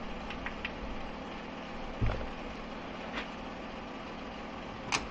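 Light metal clicks and knocks from the parts of a DYMOS manual gearbox's secondary shaft being handled while its fifth gear is worked: a few faint clicks at first, a dull knock about two seconds in, and a sharp click near the end, over a steady background hum.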